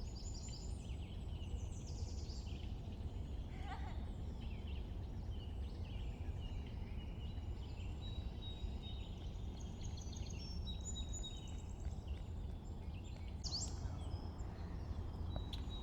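Several birds chirping and singing in short, overlapping calls over a steady low rumble of outdoor background noise.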